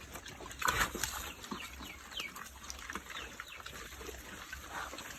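Farm animals at a wild boar pen: many short, high, falling chirps and squeaks scattered throughout, over low rustling, with a louder burst about a second in.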